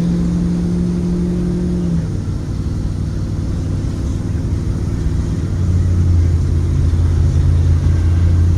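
Ford 7.3L gasoline V8 of a Blue Bird Vision school bus running, heard from inside the bus. A steady engine tone cuts off about two seconds in, and from about halfway a deeper steady hum grows louder.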